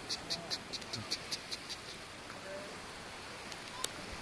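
An insect chirping in a steady rhythm, about five short chirps a second, which stops about two seconds in. A single sharp crack near the end.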